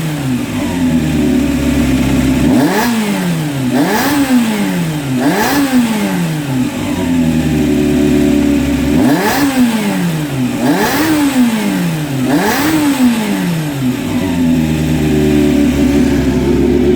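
Honda CBX400F inline-four engine idling and blipped by the throttle six times, each rev rising and dropping quickly back to idle. This is the check run after the cam chain tensioner spring and slipper were replaced to cure a cam chain noise.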